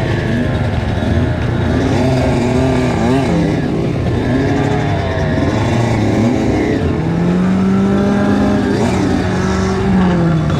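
Kawasaki KX85 two-stroke dirt bike engine revving up and down again and again, its pitch rising and falling. Near the end it holds one high rev for a couple of seconds, then drops off.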